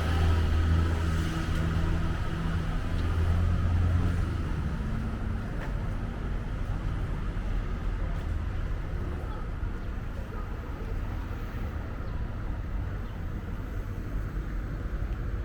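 A motor vehicle engine running close by, a low steady hum that is loudest over the first four seconds or so and then fades into a steady background of traffic noise.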